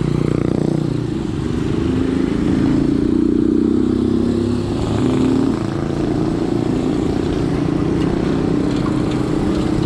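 Wind rumbling on the microphone of a moving bicycle, with a motor vehicle's engine running close by in road traffic; the engine is a little louder a few seconds in.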